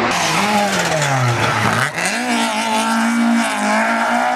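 Rally car engine at high revs. The revs fall away over the first second and a half, there is a brief break near two seconds, then the engine is back on the throttle and held at high revs.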